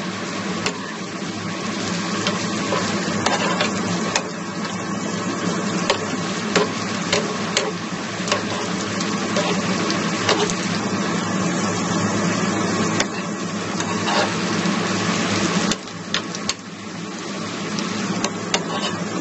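Chopped onion, shallots, garlic, chilies and shrimp paste frying in oil in a pan, sizzling steadily. A metal spoon clicks and scrapes against the pan as they are stirred, over a steady low hum.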